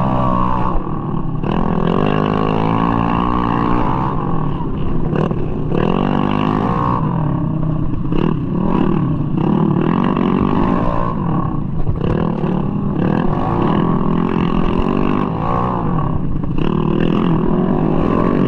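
Tuned 200cc bore-up Mahindra Rodeo scooter engine, a single-cylinder four-stroke, revving hard under race throttle, its pitch rising and falling over and over as the throttle is opened and closed.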